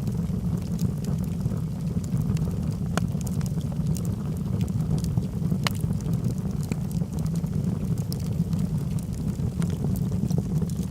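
Wood logs burning in a fireplace: a steady low rumble of the flames with scattered sharp crackles and pops, two of them louder, about three seconds and nearly six seconds in.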